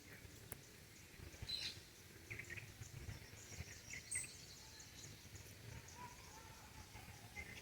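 Faint outdoor ambience: birds chirping in short calls a few times over a thin, steady insect buzz and a low background rumble.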